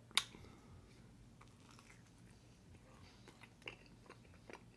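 Faint close-up eating sounds: a sharp click just after the start, then soft scattered clicks and smacks of chewing and handling food.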